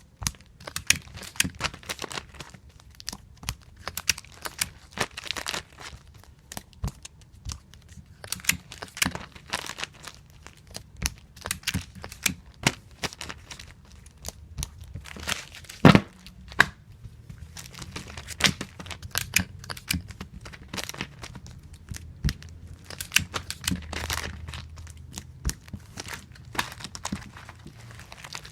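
Tape being pulled off a tape dispenser and torn off against its cutter again and again, with crinkling of plastic comic-book sleeves and irregular clicks and taps; one sharp, louder click about 16 seconds in.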